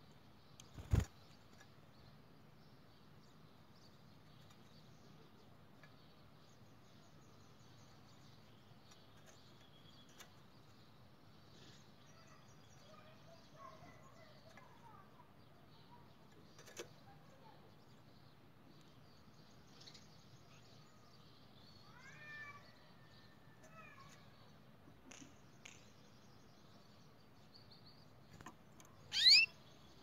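Faint, scattered bird chirps over low background hiss, with a sharp knock about a second in and a loud, short rising call near the end.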